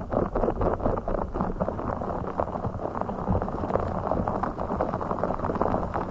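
Rapid, muffled tapping and scratching on the blue fish object held close to the microphone: a dense, irregular run of small clicks.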